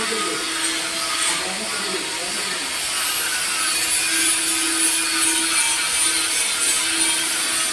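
Welding arc on a pipe joint, a steady hiss and crackle with a faint low hum.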